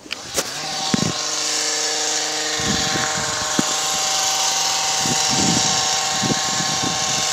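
A motor starts up and runs steadily, with a strong hiss and a steady whine.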